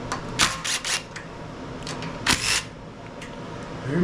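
Hand tools and engine parts clicking and clattering: a few quick sharp clicks about half a second in, then a short clatter just past the two-second mark.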